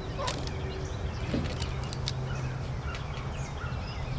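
Birds chirping in short, scattered calls over a steady low hum of outdoor background noise.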